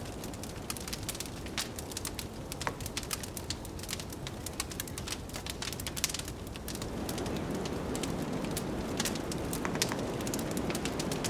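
Wood fire crackling, with many sharp pops and snaps over a steady low rush of blizzard wind; the wind swells louder about seven seconds in.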